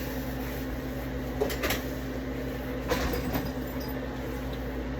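A few light knocks and clicks from produce being handled and set down, over a steady low electrical hum.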